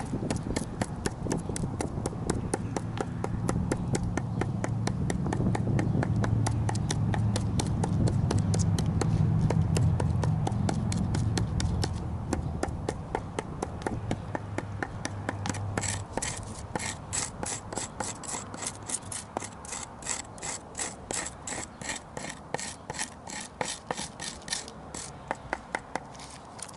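Rapid, even scraping strokes of a hand tool on charred wood, about four a second, as the burnt layer is gouged out to bare the grain. A low steady hum sits under the strokes in the first half.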